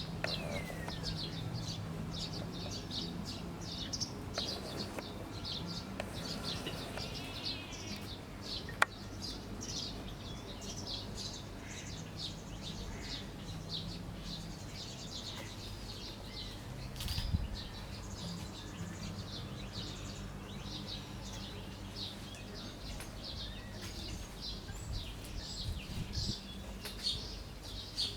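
Small birds chirping busily and without pause, many quick high chirps overlapping, over a low steady hum. A single sharp click about nine seconds in.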